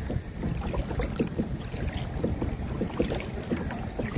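Oars or paddle splashing and water lapping around a small rowed boat, with wind buffeting the microphone.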